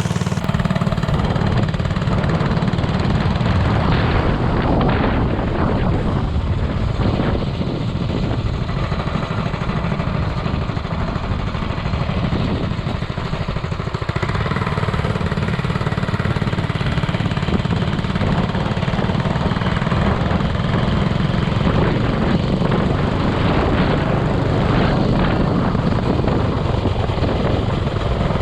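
Minibike's 212cc Ghost single-cylinder four-stroke engine running steadily under throttle as the bike is ridden, its rapid firing pulses continuous throughout.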